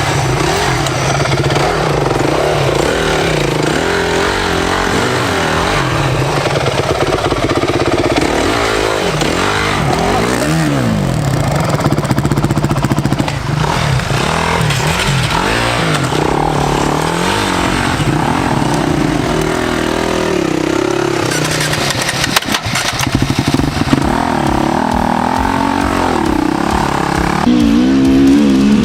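Off-road motorcycle and ATV engines revving, their pitch rising and falling repeatedly, with a short break about two-thirds of the way through.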